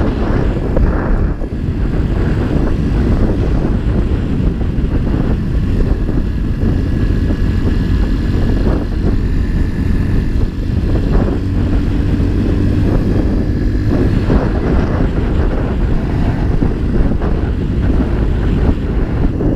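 Motorcycle engine running steadily while riding, a constant drone with steady rushing road and air noise over it.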